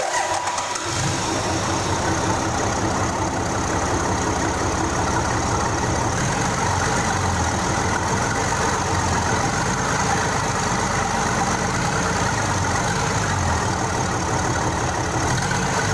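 Isuzu 6BG1 inline-six diesel engine starting right at the beginning and catching within about a second, then idling steadily.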